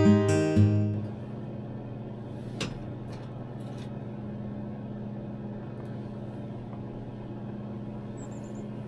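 Acoustic guitar music ends about a second in, leaving a steady low hum with a single sharp click a little later and a few fainter clicks after it. A brief, faint high chirp comes near the end.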